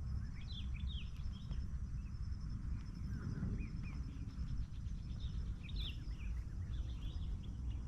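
Small birds chirping in short, rising calls over a steady deep rumble. The uploader presents the rumble as Merapi volcano rumbling.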